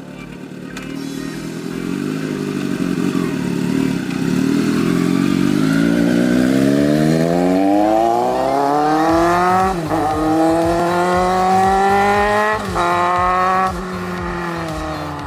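Kawasaki Z900's inline-four through a 3-inch slip-on exhaust with a can-style tip, riding and accelerating hard. After a steady low note the revs climb, drop sharply at an upshift about ten seconds in, climb again to a second shift, hold, and then the throttle closes near the end.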